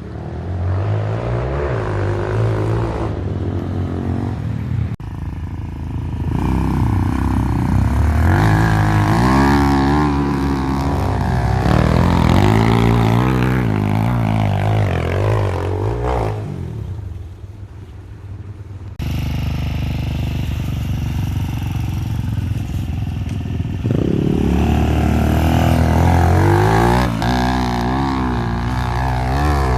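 Small four-stroke dirt bike engine being ridden, revving up and down so its pitch repeatedly rises and falls with throttle and gear changes. The sound cuts off abruptly about five seconds in and again about two-thirds of the way through, and it drops quieter for a couple of seconds just before the second cut.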